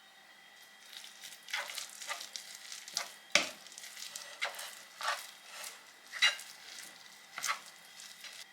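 Food being stirred in a pan, a utensil scraping and knocking about once a second over a faint sizzle.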